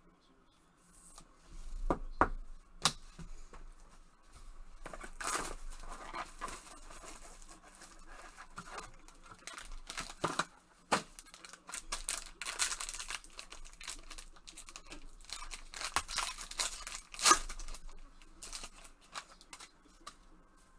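A sealed box of trading cards being torn open by hand: tearing and crinkling of the wrapper and cardboard, with scattered sharp clicks and rustles.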